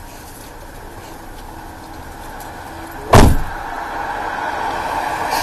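A car door slammed shut once, a sharp loud thump about three seconds in, over a steady vehicle hum that grows a little louder after it.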